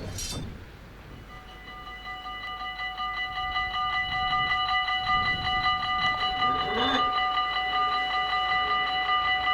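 Dutch level-crossing warning bell starting up about a second in and ringing rapidly and steadily, the signal that the crossing is activating for an approaching train. A brief extra sound comes about seven seconds in.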